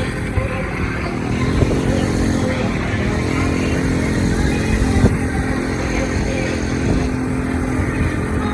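Motorbike engine running, its pitch rising and falling about two seconds in, then holding steady.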